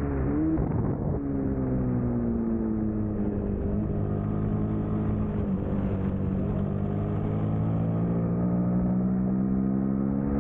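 2003 Suzuki SV650 racing motorcycle's 645 cc V-twin engine under race load. Its note dips about half a second in, sinks slowly for a few seconds as the rider backs off, then climbs steadily under throttle through the second half.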